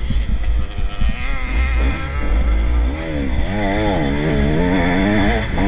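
Motocross bike engines racing, their pitch rising and falling again and again as the throttle is opened and shut. One bike comes in louder and clearer from about three seconds in.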